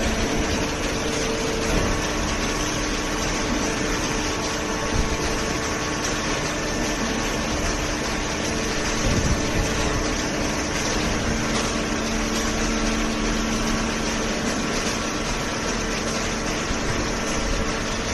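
Paper baler machine running: a constant mechanical hum with a few steady motor tones over a broad even noise.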